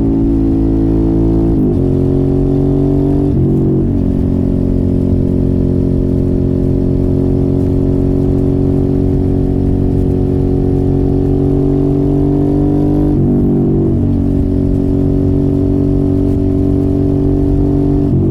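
Suzuki motorcycle with an aftermarket exhaust under way, engine running hard with the revs climbing slowly. The engine note changes abruptly a couple of seconds in, again near four seconds, and once more about two-thirds of the way through, as with gear changes.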